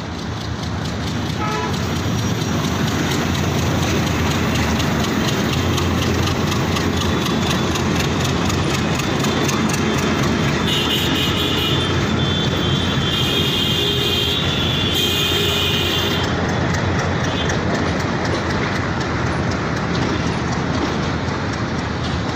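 Passenger train coaches rolling through a railway yard: a steady rumble with rapid wheel clatter over the rail joints and points, and a high metallic squeal from about ten to sixteen seconds in.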